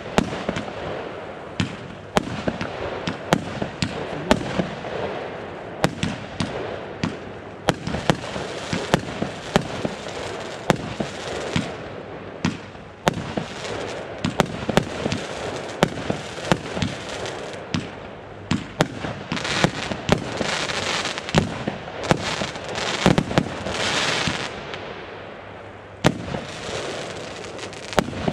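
Consumer fireworks firing: a rapid, continuous run of sharp bangs over a crackling, hissing bed, with the hiss growing stronger from about two-thirds of the way in.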